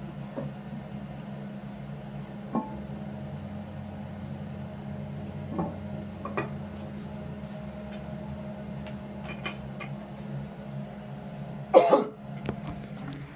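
Porcelain toilet tank lid being handled: a few light knocks and clinks, then one louder clunk near the end, over a steady low hum.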